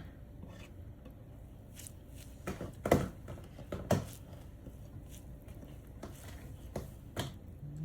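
Scattered handling noises: short clicks and knocks over a low background, the loudest two about three and four seconds in.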